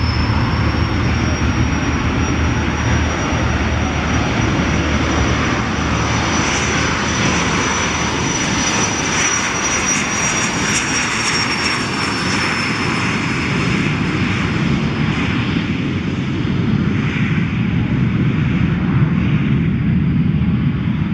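Turbine-engined light aircraft running: a broad engine rush with a high turbine whine over it. The whine rises slightly, holds, then drops and fades in the second half.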